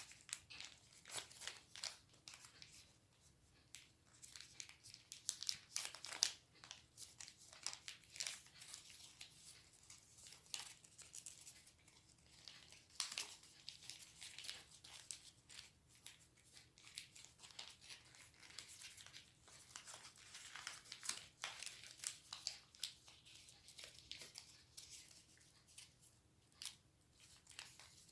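A sheet of origami paper being folded and creased by hand for an origami bear. The paper gives quiet, irregular crinkles and crackles, with a sharper crackle now and then.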